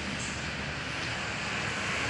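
Heavy truck's diesel engine running under load on a steep uphill climb: a steady low drone with road and tyre noise.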